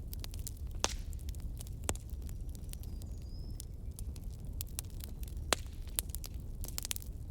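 Wood fire burning in a fireplace: a steady low rumble of the flames with scattered sharp crackles and pops, the loudest about one, two and five and a half seconds in.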